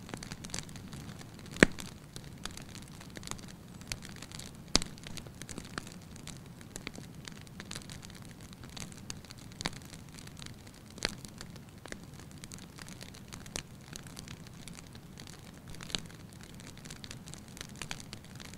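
Wood fire burning in a fireplace: a steady low rumble under irregular sharp crackles and pops, the loudest about a second and a half in and again near five seconds.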